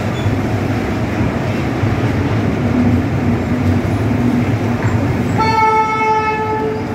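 Milk tank wagons of a passing express train rolling steadily over the rails at speed. About five seconds in, a train horn sounds once, held for about a second and a half.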